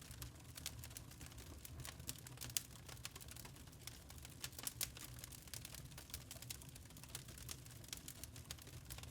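Wood fire crackling in a fireplace: irregular sharp pops and snaps over a low steady rumble of the burning.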